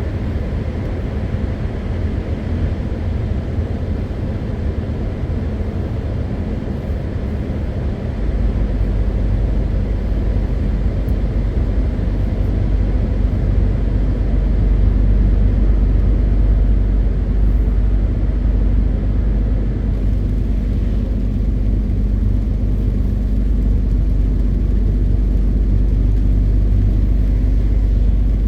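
MAN TGX 520 truck driving, its straight-six diesel engine running steadily under road rumble. About eight seconds in the deep rumble grows louder and stays up.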